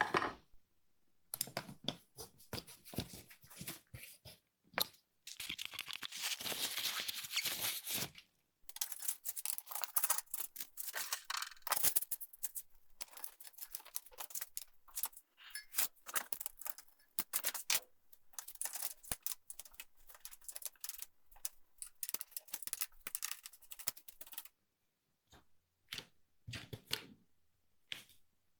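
Irregular sharp clicks, rattles and small knocks of bicycle parts and tools being handled, with a denser scraping hiss for a few seconds about five seconds in.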